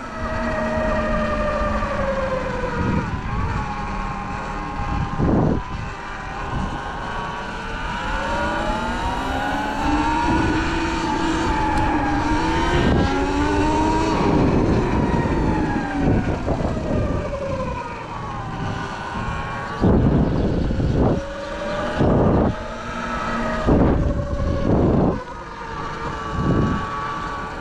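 Sur-Ron electric dirt bike's motor and belt drive whining while riding, the pitch rising and falling with speed, with several short loud bursts over it. The belt sounds louder than usual to the rider, who finds it not normal for a bike with under 70 miles and suspects dirt or water in the belt.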